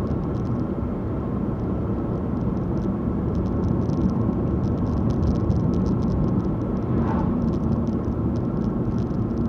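A car driving: the steady rumble of engine and tyres on the road, with a faint steady hum over it.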